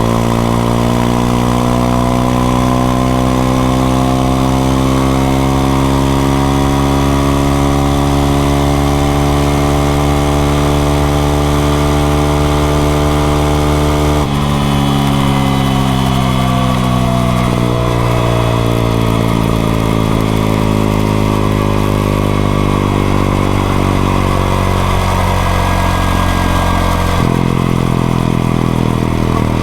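Honda XRE 190 single-cylinder motorcycle engine running under way. Its pitch climbs slowly over the first half, drops suddenly with a gear change about halfway, then falls steadily as the bike slows, with another abrupt shift near the end.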